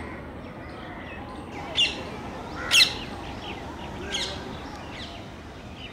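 Birds calling: three short, sharp calls about two, three and four seconds in, the middle one loudest, over fainter chirping.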